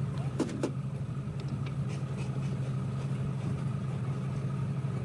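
An engine idling steadily, a constant low hum, with a few light metallic taps about half a second in.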